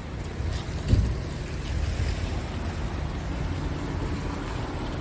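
Scania R tractor unit's diesel engine running at a steady idle, a low rumble, with a single thump about a second in.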